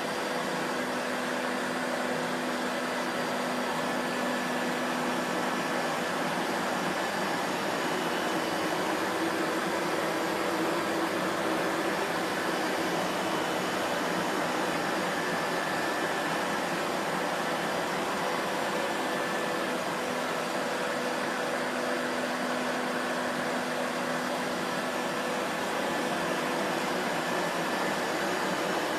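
Vacuum cleaner motor running steadily: a continuous whooshing rush of air with a faint steady hum of motor tones underneath.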